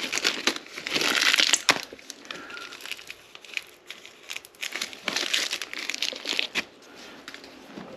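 Crinkling, scraping handling noise in several bursts with scattered small clicks, loudest about a second in and again after about five seconds.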